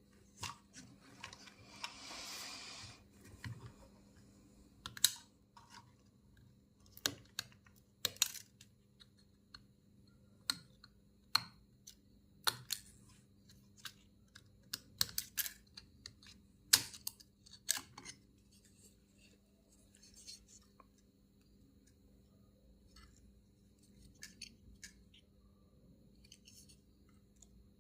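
Scattered sharp clicks and taps of small hand tools on a phone-repair bench, mostly in the middle stretch. There is a short hiss about two seconds in, over a steady low hum.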